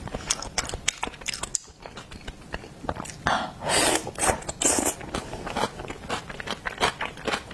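Close-up chewing and crunching of seafood by a person eating, with many quick wet clicks. Two louder, longer chewing noises come about three and a half and four and a half seconds in.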